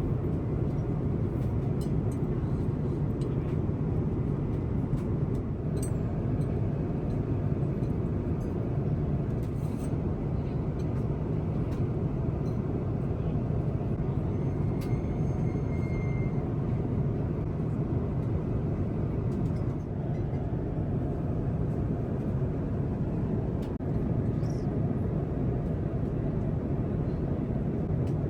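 Steady cabin noise of an Airbus A350-1000 in cruise: an even low rush of airflow and engines, with a few faint clicks.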